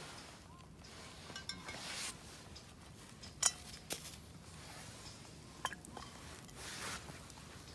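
About four sharp clinks of camp cookware or utensils knocking together, amid soft rustling from handling.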